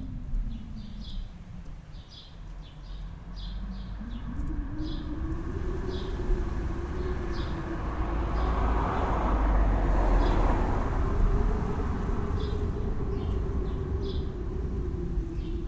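Snowstorm wind blowing steadily, with a low whistling tone that sinks in pitch early on, climbs back and holds, and a gust that swells louder in the middle. Short, faint high chirps or ticks recur irregularly over it.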